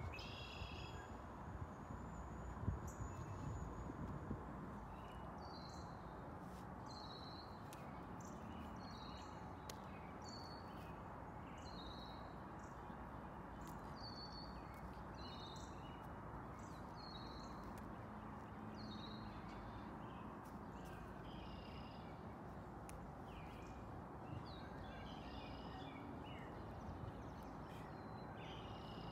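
A bird singing short high chirps repeated about once a second over faint, steady outdoor background noise, with a few low thumps from wind or handling in the first few seconds.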